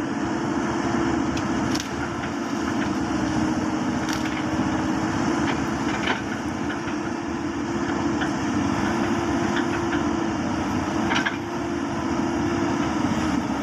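Komatsu D85PX bulldozer's diesel engine running steadily under load as it pushes against a tree, with a few short sharp cracks along the way.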